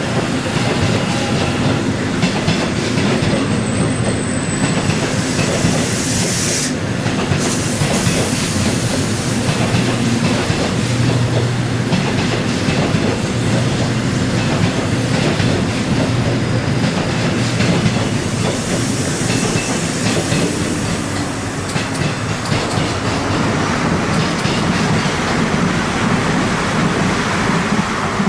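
A train running through the station on steel rails: a steady rolling rumble with the wheels clacking over rail joints, and a brief high squeal about seven seconds in. It tapers off at the very end.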